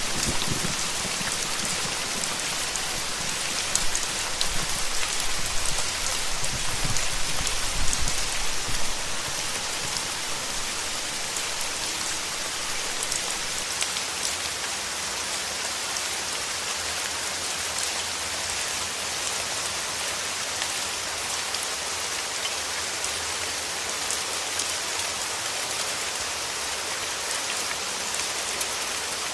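Steady rain falling, an even hiss of dense drops. A low rumble underneath dies away about nine seconds in.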